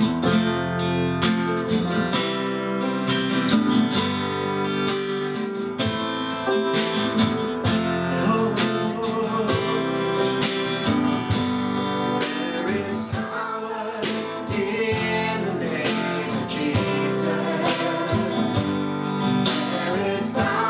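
Acoustic guitar strummed steadily, playing the instrumental introduction of a worship song.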